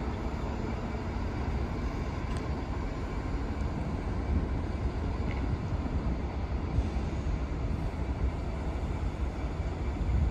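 Train running, a steady deep rumble with some hiss above it and no distinct horn or tones.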